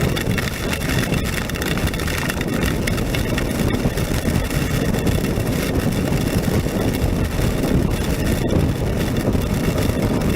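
Honda NC700X motorcycle's parallel-twin engine running at road speed on a rain-soaked road, under a steady rush of wind on the microphone.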